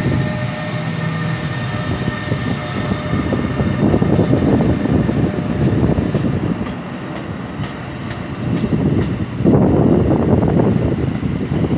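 NJ Transit bi-level commuter coaches rolling past as the train departs: a steady rumble of steel wheels on rail. A few sharp clicks come in the second half, and the rumble swells louder for the last two seconds.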